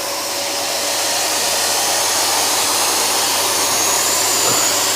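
Electric vacuum cleaner running steadily with its carpet brush attachment: a continuous rush of suction air with a faint high motor whine.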